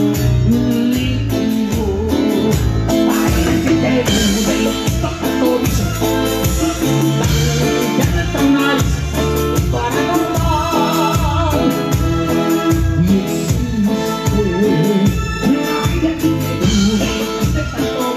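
A band playing a song, with a singing voice, guitar and a steady pulsing bass beat.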